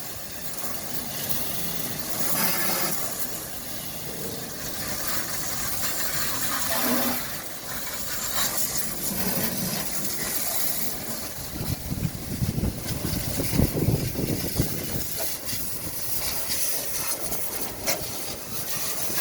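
High-pressure water spray hissing as it washes a vehicle, getting louder and rougher for a few seconds past the middle.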